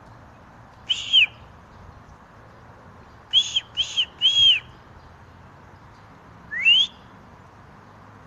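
Short, high whistled notes: one arched note, then a quick run of three, then a single rising note near the end.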